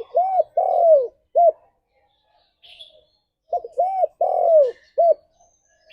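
Spotted dove (tekukur) cooing: two phrases of four low, arched coos each, about three and a half seconds apart. The third coo in each phrase is the longest and drops in pitch at its end. Faint high chirps come in between the phrases.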